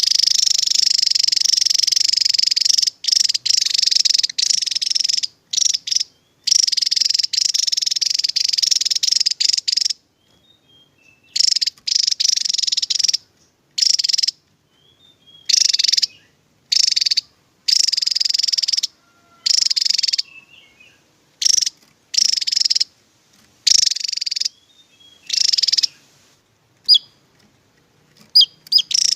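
Javan tesia singing its rapid, high-pitched 'tembakan' song: an unbroken outpouring for about the first ten seconds, then short phrases of one to two seconds separated by brief pauses.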